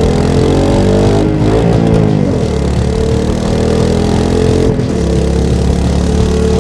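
Royal Enfield Meteor 350's 349 cc single-cylinder engine and exhaust running under way. The revs climb over the first two seconds, fall back, then drop again about five seconds in.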